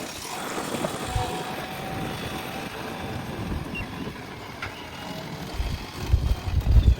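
JCB backhoe loader's diesel engine running while the machine works, with irregular low rumbling bursts in the last second and a half, the loudest part.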